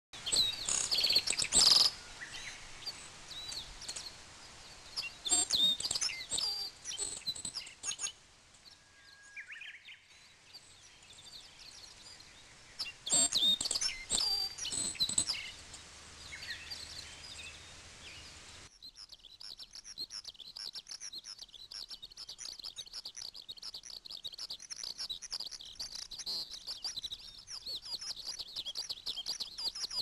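Birds chirping and calling, with loud clusters of calls in the first half. A little past the middle the sound changes abruptly to a steady run of rapid, high chirping.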